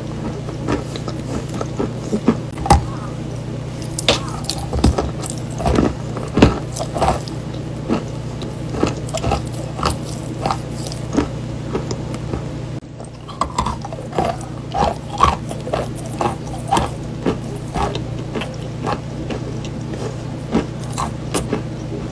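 Dry chalk being bitten and chewed close to the microphone: a long run of sharp crunches, about two a second, over a steady low hum. The crunching breaks off for a moment about 13 seconds in.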